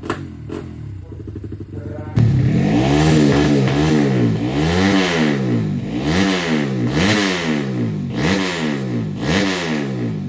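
Motocross bike engine being revved with repeated throttle blips, pitch climbing and falling about once a second, after a quieter stretch of lower-revving running at the start.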